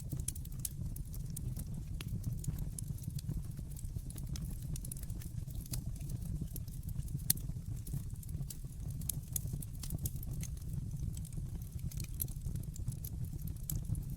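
Wood fire burning in a fireplace: constant small crackles and pops over a steady low rumble of the flames, with one sharper pop about halfway.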